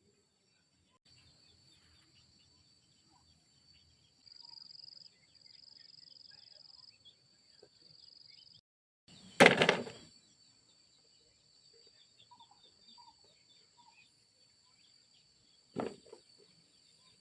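Outdoor rural ambience with a faint steady high-pitched insect drone. It is broken by a loud whoosh about halfway through and a shorter whoosh near the end.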